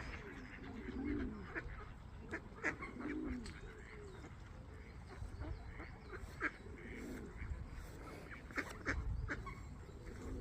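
Swans calling: short low honks that rise and fall in pitch, mixed with sharp high peeps. This is the mother swan's agitated warning at an approaching person while she guards her cygnets.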